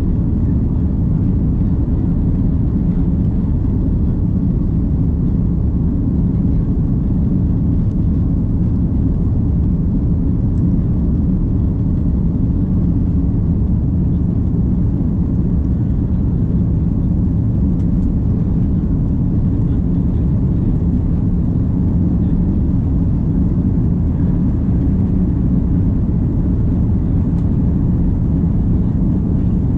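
Steady low rumble of an Airbus A330's engines and airflow heard from inside the passenger cabin, even throughout with no rise or fall.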